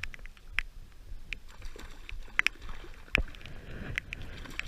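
Heavy rain, with scattered raindrops tapping irregularly on the camera's waterproof case.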